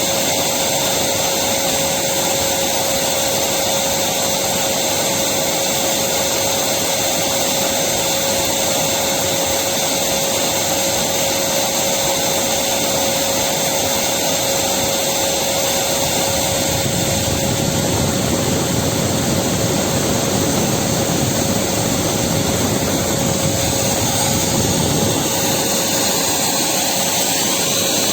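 Electric vacuum cleaner running steadily, its motor whining at one constant pitch over a loud even rush of air, a little fuller in the low end in the latter half.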